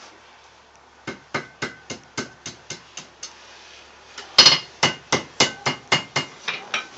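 Blacksmith's hammer striking an anvil in two quick runs of blows, about four a second, each blow ringing with a metallic tone; the second run starts after a short pause about four seconds in and is louder.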